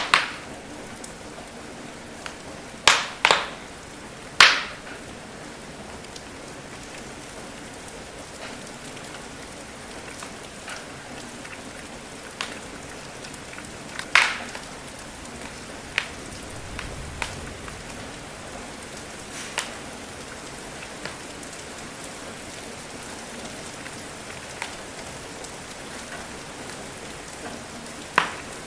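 Steady rain with a wood fire crackling: a few sharp, loud pops of burning wood scattered over the even hiss of the rain, with a cluster of them a few seconds in.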